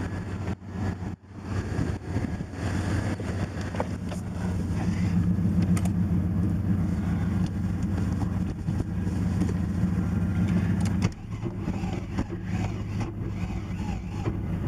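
The 1980 Porsche 924 Turbo's turbocharged four-cylinder engine is being started after sitting for four months. A steady engine drone holds for about eleven seconds, then drops off sharply. The starting trouble is put down to a bad ground.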